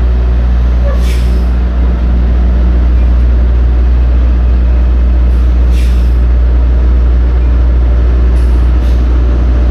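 Semi truck's diesel engine idling steadily, with short hisses of air a few times: about a second in, near six seconds, and twice near the end.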